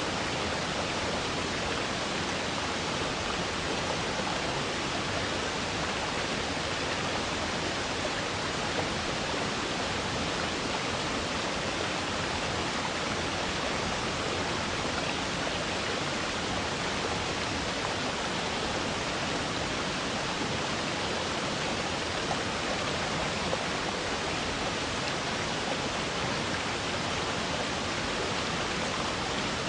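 Waterfall: water falling with a steady, unbroken rushing noise.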